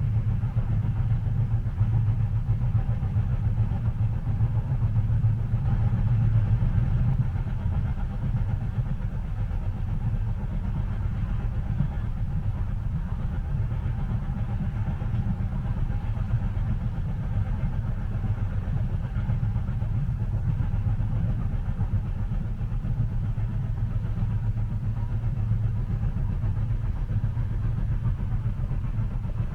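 Steady low rumble of a moving train heard from inside the passenger cabin, swelling slightly about six seconds in.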